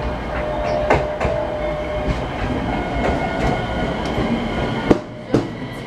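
A train running along the platform with a steady rumble, a faint whine held through it, and a few sharp wheel clacks over rail joints about a second in and near the end. The rumble drops off about five seconds in.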